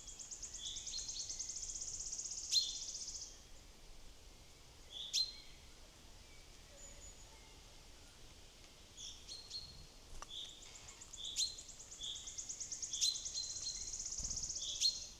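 Small wild songbirds calling. One bird sings a long, fast, high-pitched trill twice, at the start and again near the end, while short chirps and sharp call notes come between.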